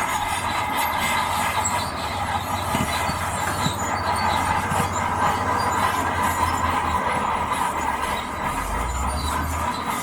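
Shantui DH17C2 crawler bulldozer working: its diesel engine runs under the steady squeal and clank of its steel tracks, and the low engine note swells near the end.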